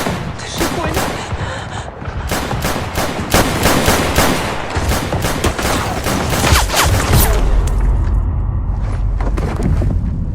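Battle gunfire in a film sound mix: a dense volley of rifle and machine-gun shots. The shots thin out after about seven seconds as a deep, steady rumble takes over.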